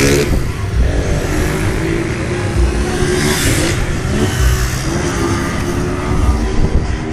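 Several motorcycle engines revving on the street, their pitch climbing as they accelerate, with one bike passing close and loudest about three seconds in.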